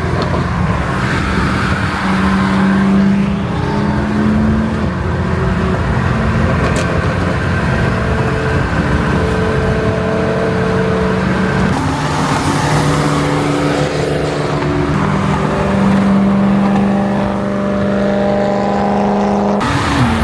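Car engines and exhausts running steadily while driving on the road, their pitch holding and then stepping up or down every few seconds.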